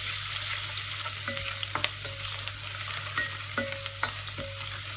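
Chopped green chillies and garlic sizzling in hot ghee and oil in a stainless steel pressure cooker, stirred with a spatula that scrapes and taps against the pot a few times, sharpest about two seconds in.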